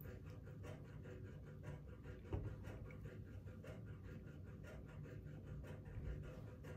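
Faint chewing of a piece of cheddar cheese with the mouth closed: soft, regularly repeated mouth clicks over quiet room tone, with a small knock about two seconds in.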